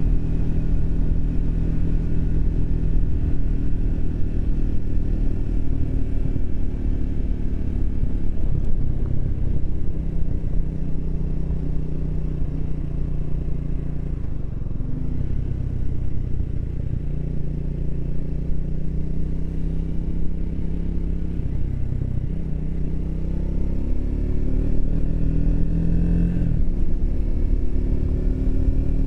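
Triumph Speed 400's single-cylinder engine running on the move, its pitch easing off twice and then rising as it accelerates near the end, with a sudden drop in pitch like a gear change.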